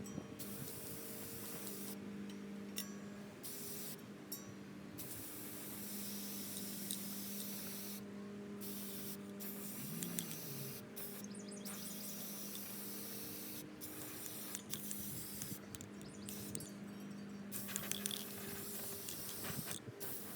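Spray hissing in long bursts broken by short pauses, over a steady low hum.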